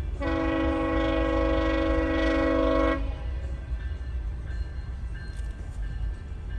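GO Transit commuter train's horn sounding one long chord blast of about three seconds, over the low rumble of the passing train.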